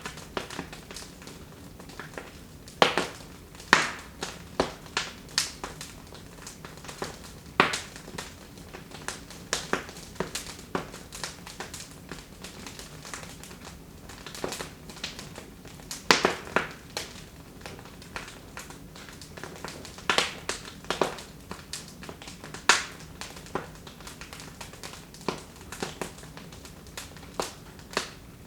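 Wood fire burning in a fireplace, crackling with irregular sharp pops and snaps, a few of them louder, over a faint steady background.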